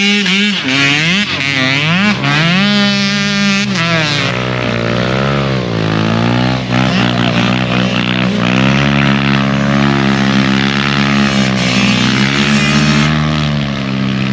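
Motorcycle engines running hard. In the first few seconds the revs climb and drop back several times, as with gear changes, then hold high and waver up and down.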